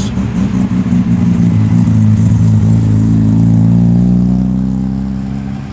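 A car engine driving past at low speed, its note steady, growing louder to about the middle and then fading as the car moves away.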